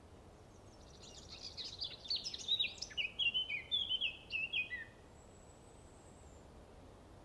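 A songbird singing one rapid, jumbled phrase of high notes that steps down in pitch over about four seconds, followed by a thin high whistle.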